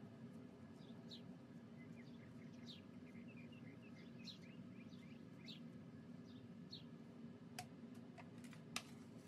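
Faint background bird chirps, short falling calls repeating every half second or so, over a low steady hum. A few sharp taps come near the end, the loudest just before it ends.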